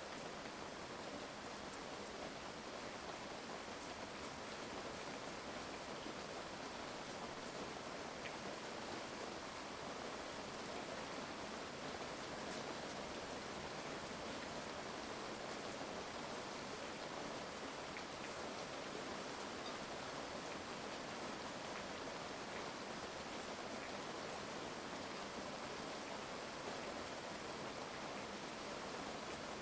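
Steady rain falling, an even hiss with a few faint scattered drop clicks and no thunder.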